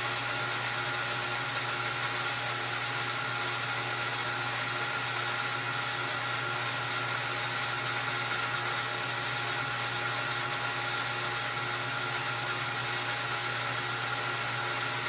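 Metal lathe running steadily, its motor and spindle giving an even hum with a constant whine.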